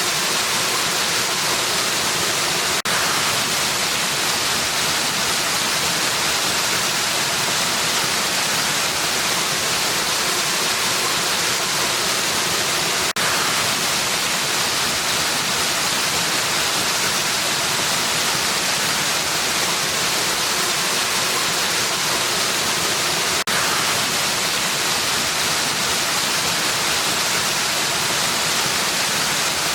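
Waterfall: a dense, steady rush of falling water, with a very brief dip about every ten seconds.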